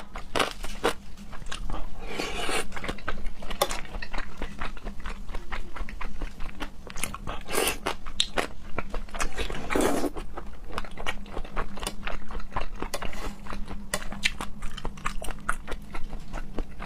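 Close-miked eating: continuous biting and chewing, with wet mouth clicks, smacking and some crunching.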